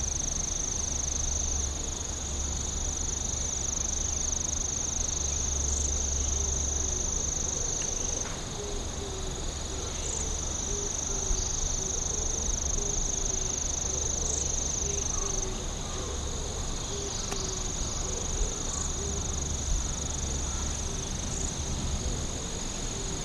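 A chorus of calling insects: a continuous high-pitched trill with a second, lower trill under it. From about eight seconds in, a lower, rapidly pulsing call joins, over a steady low rumble.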